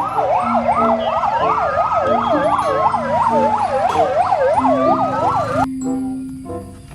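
Electronic fire-truck siren wailing rapidly up and down, with a slower rising and falling wail over it, cutting off suddenly near the end. Background music plays throughout.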